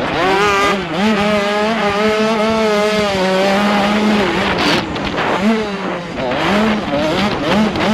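85cc two-stroke motocross bike engine under racing throttle: held at high revs for about three seconds, then the revs drop and it is blipped up and down several times.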